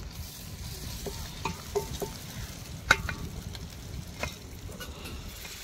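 Biryani masala frying and sizzling in a cooking pot while it is stirred, the spoon knocking and scraping against the pot several times, with the sharpest knock about three seconds in.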